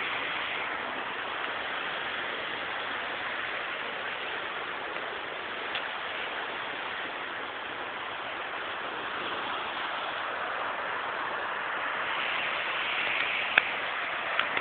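River water rushing steadily over rocks and rapids, running high. A few brief sharp clicks near the end.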